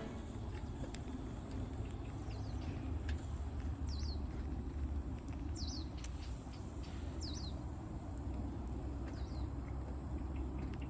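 Small bird calling over a low outdoor background: a short falling chirp, often doubled, repeated about five times at intervals of one and a half to two seconds, with a few faint sharp clicks between.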